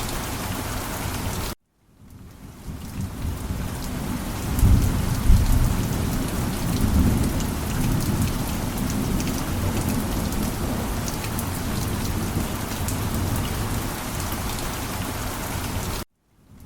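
Steady heavy rain with a low rumble of thunder rolling through from about four to eight seconds in. The sound cuts out abruptly about one and a half seconds in and fades back up, and cuts out again near the end.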